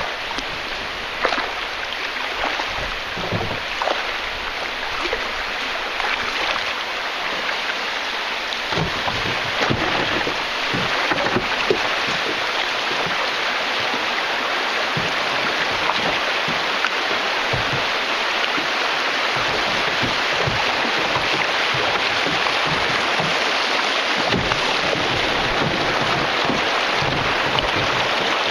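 River water rushing over a shoal, a steady rushing that grows gradually louder, with a few small splashes or knocks heard from the canoe.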